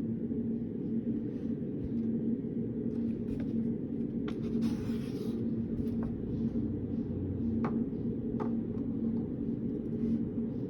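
Steady low hum of a study room's background noise with a held low tone, a few soft clicks of desk work, and a short scratchy rustle about halfway through, like paper or pen on paper.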